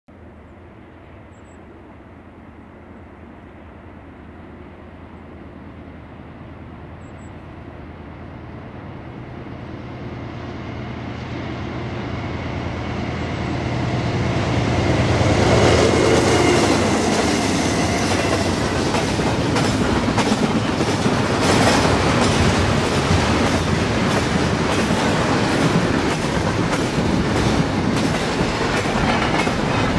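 Two GE Dash 9-40CW diesel locomotives drawing near, their engines' drone growing steadily louder over the first half. The second half is the loud, steady rumble of a double-stack container train rolling past, its wheels clicking rapidly over the rail joints.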